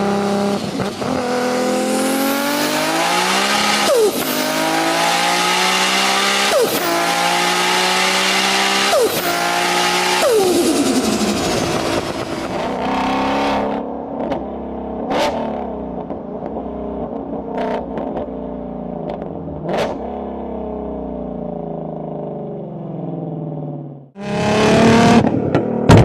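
Car engine accelerating hard through several gears, its pitch climbing and dropping sharply at each upshift. It then runs at steadier revs with a few sharp cracks, and the sound changes abruptly to a louder engine near the end.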